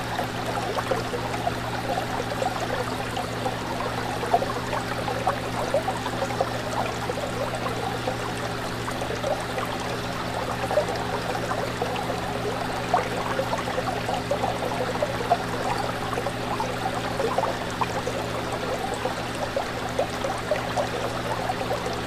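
Fish tank water bubbling and trickling steadily, with many small bubble pops, over a constant low hum.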